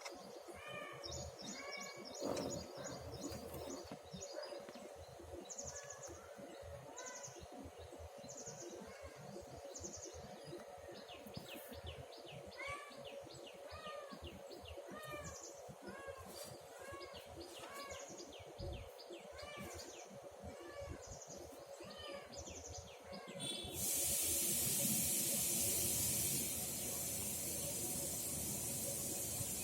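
Small birds chirping and trilling in quick, repeated short calls over a steady low hum. About three quarters of the way through, a loud, even hiss starts suddenly and masks them.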